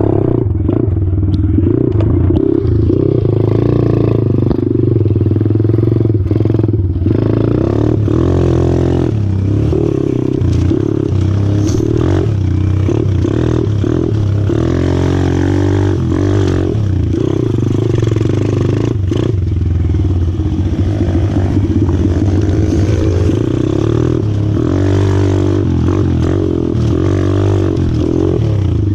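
125cc four-stroke pit bike engine running on a ride, its note rising and falling with the throttle, with occasional clattering knocks.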